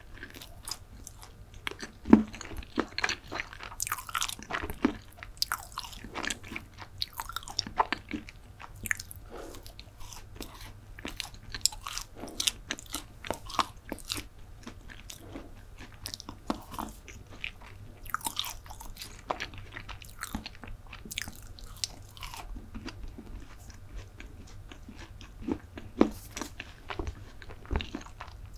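Close-miked chewing of chocolate chip brownie: a dense, uneven run of small wet mouth clicks and crackles.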